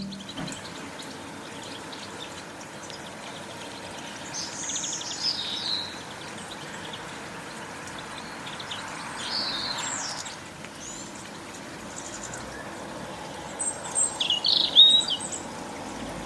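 Small garden birds calling in three clusters of short, high calls, the last one near the end the loudest, over a steady outdoor background hiss.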